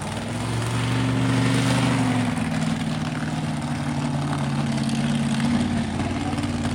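Monster truck engine running hard, its pitch climbing over the first second and then held fairly steady.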